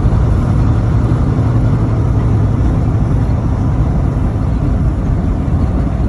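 Steady low rumble of a semi truck under way, heard inside the cab: engine drone mixed with road noise.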